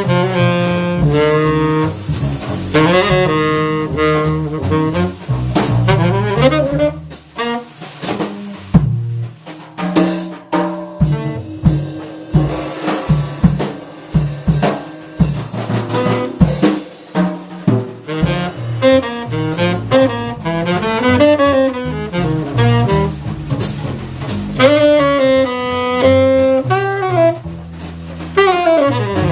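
Jazz trio of tenor saxophone, upright bass and drum kit, with the tenor saxophone playing melodic lines over walking bass and drums.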